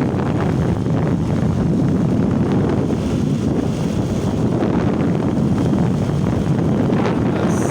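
Steady, heavy wind rumble buffeting the microphone while travelling, with the drone of the moving vehicle underneath.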